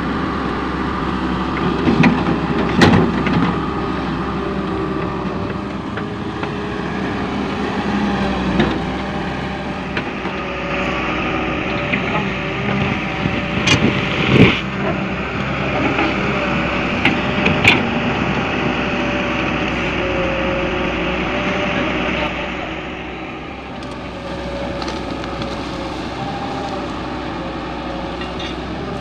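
Volvo EW130 wheeled excavator's diesel engine running steadily while it works. A higher hiss-like whine joins about ten seconds in and eases off near the end, and there are several sharp knocks and clunks along the way.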